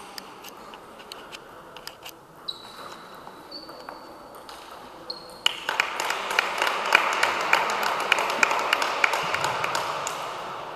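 Table tennis ball clicking sharply off bats and table during play, with a few brief high squeaks. About halfway through, a much louder, denser stretch of noise packed with rapid sharp clicks takes over and fades near the end.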